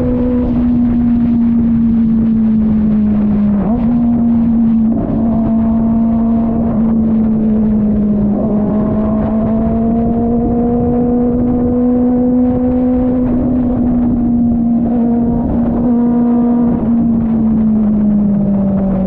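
Kove 450RR's inline-four engine running steadily at a high pitch under way, with two brief dips in the note and a falling pitch near the end as it slows.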